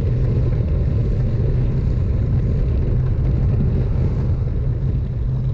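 Wind rushing over a bike-mounted action camera's microphone while riding at speed, a steady deep rumble with road and tyre noise under it.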